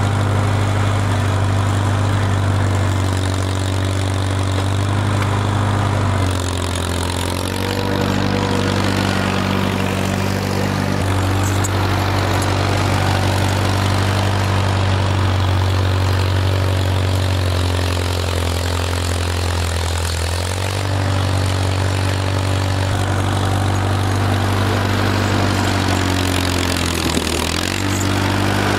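Vehicle engine running steadily under use, its pitch dropping and picking back up a few times.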